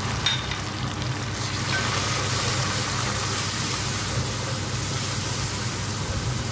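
Tomato paste, shallots, garlic and ground spices frying in oil in a pot, stirred with a wooden spoon: a steady sizzle that grows brighter about a second and a half in, with a few light spoon clicks near the start. A low steady hum runs underneath.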